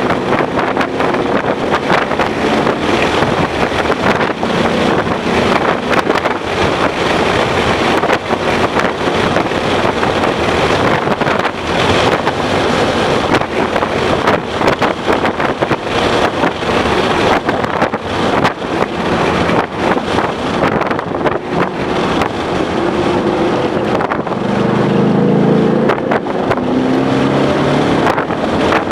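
2011 Ford Mustang GT's 5.0 V8 engine running hard at track speed under heavy wind noise buffeting the microphone, its note rising as it accelerates about three-quarters of the way through.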